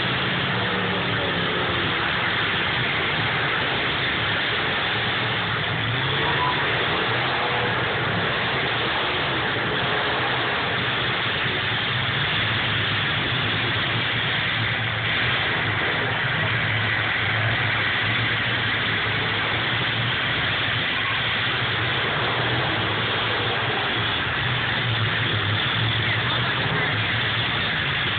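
Engines of several demolition derby cars running together in the arena, a loud steady din.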